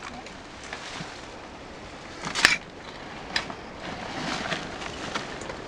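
A few sharp knocks against a low steady background: the loudest about two and a half seconds in, a smaller one about a second later.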